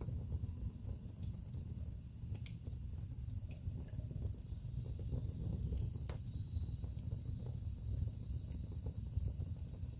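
Wood fire burning in a fireplace: a steady low rumble of flames with scattered crackles of burning logs, and a couple of sharper pops, one about two and a half seconds in and one about six seconds in.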